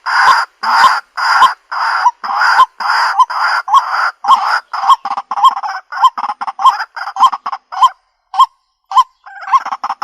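White-breasted waterhen calling: a run of repeated loud notes, about two a second at first, that become shorter and quicker, break off for about a second near the end, then resume in a fast choppy run.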